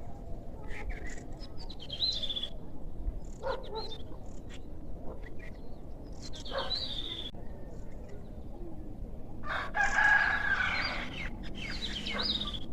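Bird calls: several short pitched calls, and a longer, loudest call about ten seconds in.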